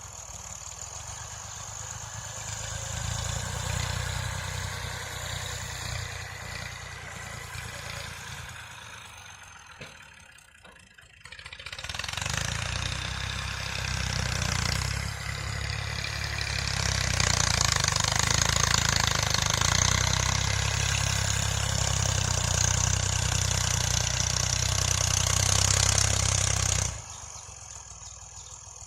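Massey Ferguson tractor's diesel engine running. It fades almost away about ten seconds in, comes back and grows louder, then holds steady until the sound drops sharply near the end.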